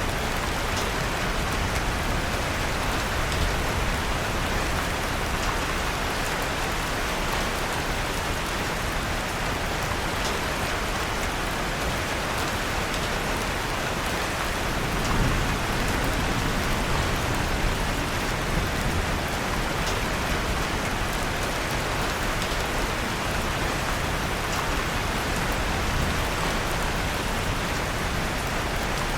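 Steady rain falling, with faint scattered crackles from a wood fire and a brief low swell about halfway through.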